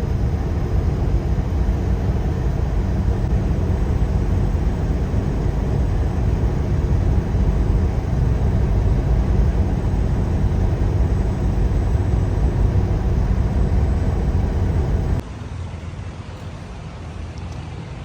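Steady low rumble of engine and road noise heard inside a semi-truck cab at highway speed. It cuts off abruptly about fifteen seconds in, leaving a much quieter hum.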